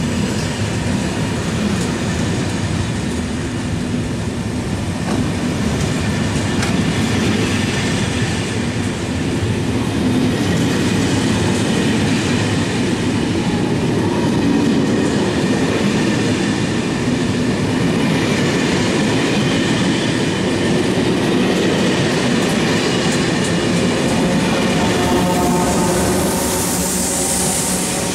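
Train of Corail passenger coaches rolling past steadily, wheels clattering over the rails with some wheel squeal. Near the end the BB 7200 electric locomotive at the rear passes, adding a high hiss and a faint whine.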